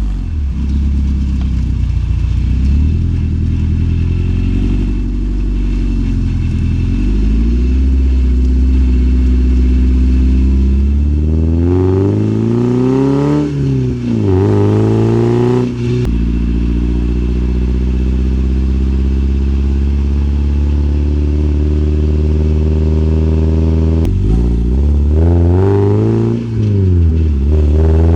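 1987 Porsche 944 2.5's four-cylinder engine through a Fox sport exhaust, running steadily at first, then revved up and dropping back twice about twelve seconds in. Its pitch climbs slowly for several seconds, then it is revved quickly several times near the end.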